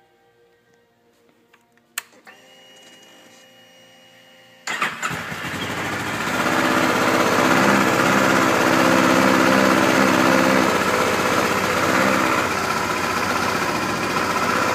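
A click about two seconds in, then a faint steady whine. The 2011 Kawasaki Ninja 650's fuel-injected 650cc parallel-twin engine then cranks about halfway through, catches and keeps running, loudest a few seconds after starting and easing slightly toward the end.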